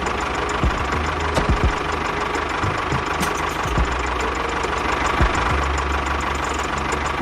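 An engine running steadily with a rapid knocking rhythm, with a few short knocks on top.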